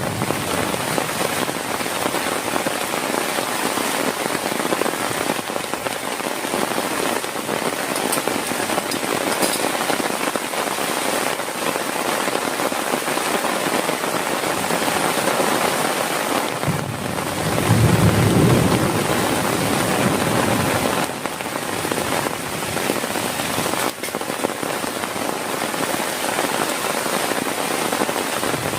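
Heavy rain falling steadily, a dense even hiss of drops striking a surface. A brief low rumble swells up about two-thirds of the way through.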